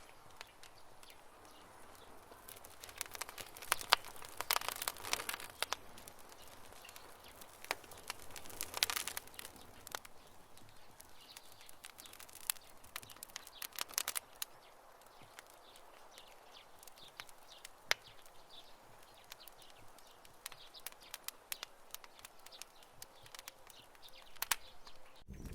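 Campfire crackling, with irregular sharp pops that come in thick clusters a few seconds in and again around the middle, then thin out to scattered single snaps.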